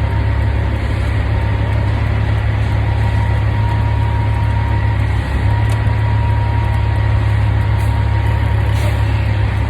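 Semi truck's diesel engine running steadily: a loud, even low drone with a faint steady whine above it.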